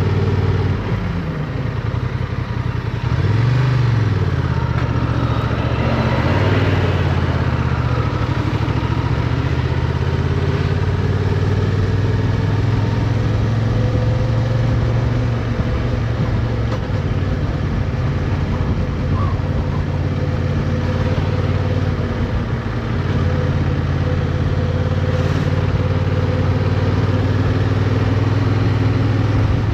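Motorcycle engine heard onboard with road and wind noise. It eases off about a second in, rises and falls briefly a couple of seconds later, then runs steadily, with shifts in pitch near the middle and later on as the rider changes speed through turns.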